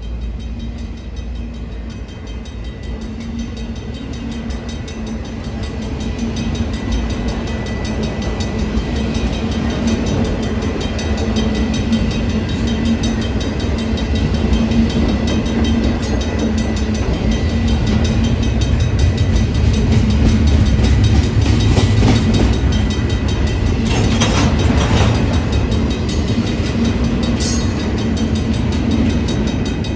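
Union Pacific train rolling past the crossing: a steady rumble and hum that grows louder over the first twenty seconds and then holds, with a few short clatters of wheels over the rail joints in the last third.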